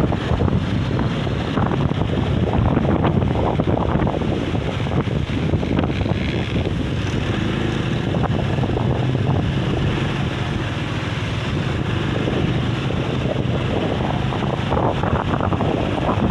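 Strong sea wind buffeting the microphone as a steady loud rush, a gale strong enough to lift the beach sand.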